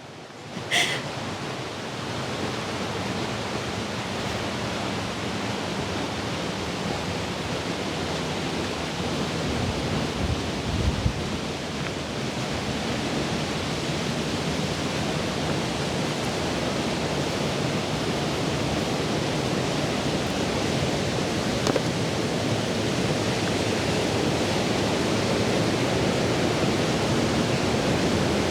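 Plodda Falls, a 46 m waterfall in spate after heavy rain, rushing as a steady even roar that grows gradually louder as it is approached. A brief low bump sounds about ten seconds in.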